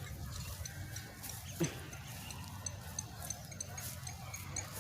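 Light rain: sparse high ticks of drops scattered over a steady low rumble, with one short downward-sweeping sound about one and a half seconds in.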